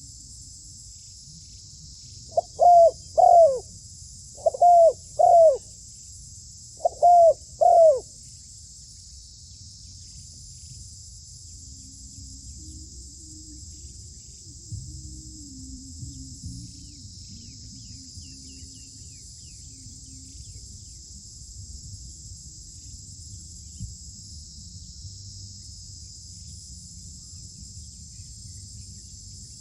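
Dove cooing in pairs of short notes, three pairs in the first eight seconds, over steady high insect chirring that carries on after the calls stop.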